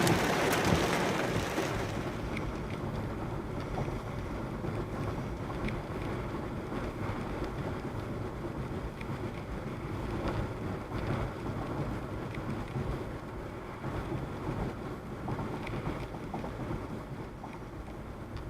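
Rain mixed with small hail, up to dime size, hitting a car. It is loudest at the start, eases over the first two seconds into a steady wash, and has scattered faint ticks throughout.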